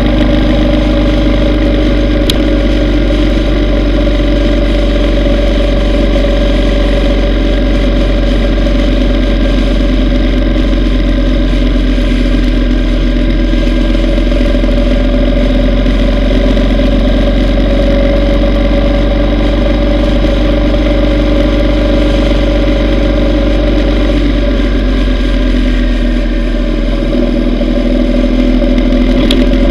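Yamaha V Star 950's air-cooled V-twin engine running steadily under way, with a steady low rumble. The engine eases off briefly near the end, then picks back up.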